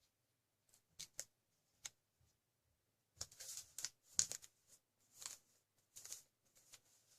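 Origami paper being folded and creased by hand: scattered crinkles and rustles, a few sharp crackles about a second in and a busier patch in the middle.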